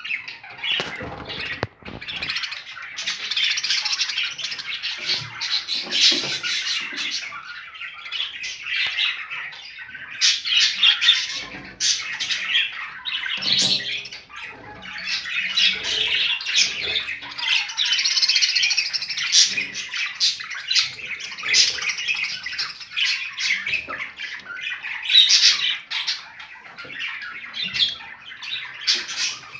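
Many birds chirping and squawking at once, their calls overlapping with no break.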